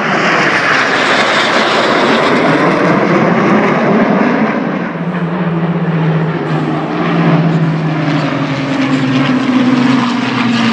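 Fixed-wing aircraft flying past: a loud rushing engine noise, giving way about halfway through to a steady droning hum that rises a little in pitch near the end.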